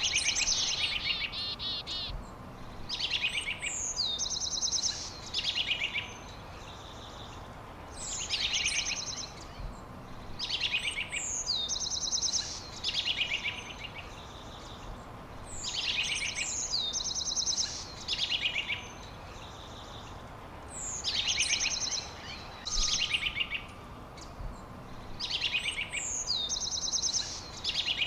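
A songbird singing the same phrase over and over, about every five seconds: a high falling whistle followed by rapid trilled notes, over a faint steady hiss.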